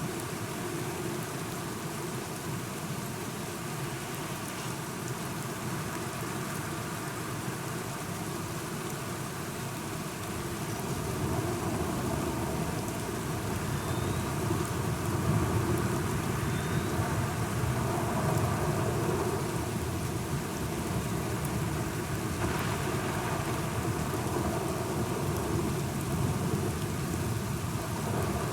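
Steady rain falling, joined about ten seconds in by a long low rumble of thunder that builds and rolls on.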